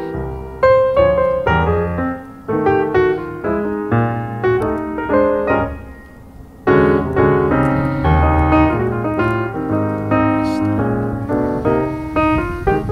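Piano music: a quick run of struck notes, thinning out for a moment just past the middle before picking up again.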